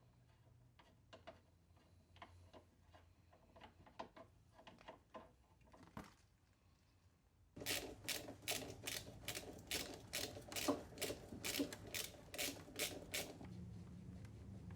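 Hand tools working on metal. A few faint scattered clicks come first. Then, about halfway in, a run of sharp, ringing metallic clicks about three a second lasts several seconds, and a low hum follows.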